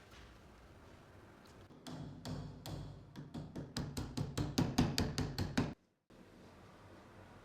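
Olympia Splendid portable typewriter being typed on: a quick run of sharp keystrokes, about four a second, that stops abruptly.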